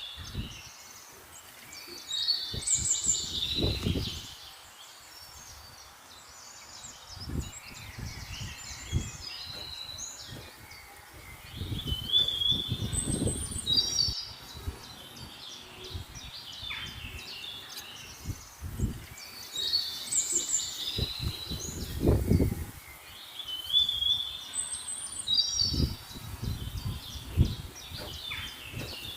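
Small birds singing and chirping in short repeated high phrases, with irregular bursts of low rumble coming and going underneath.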